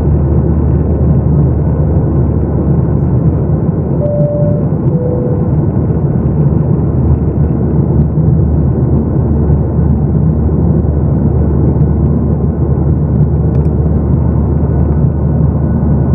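Steady engine and airflow noise inside the cabin of a Boeing 737-800 in flight. About four seconds in, a two-note cabin chime sounds, high then low.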